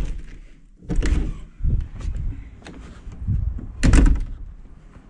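A door being handled, opening and shutting, with a series of knocks and thuds; the loudest comes about four seconds in.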